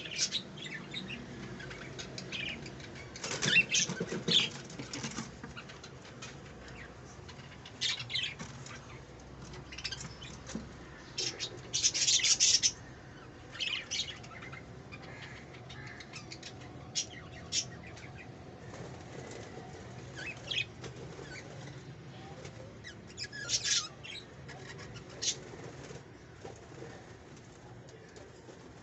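A parrot's wings flapping in short, irregular bursts, the loudest about twelve seconds in.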